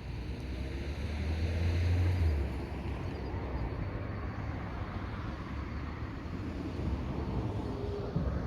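A car driving past, its tyre and engine noise swelling to a peak about two seconds in and then dropping away, over a steady low rumble of traffic.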